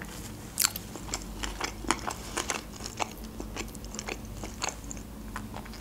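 Close-miked mouth sounds of a person chewing sushi rolls: a string of short wet clicks and smacks, the loudest about half a second in.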